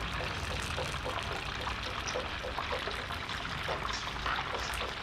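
Food frying in hot oil: a steady sizzle dotted with small crackles.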